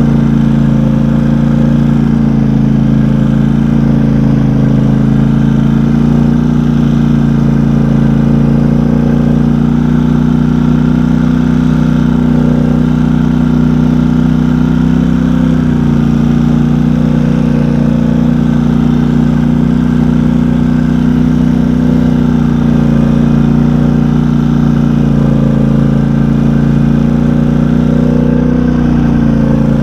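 Engine of a small off-road vehicle running steadily under way, with a slight change in pitch about halfway through.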